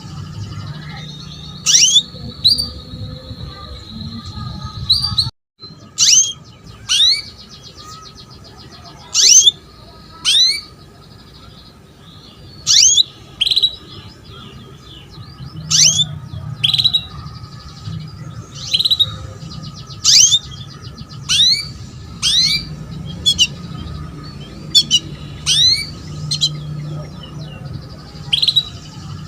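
Female canary calling: sharp, down-slurred chirps repeated about once a second, some in quick pairs, over a low steady hum. These are a hen's calls to a male, used to stir males into song. The sound cuts out briefly about five seconds in.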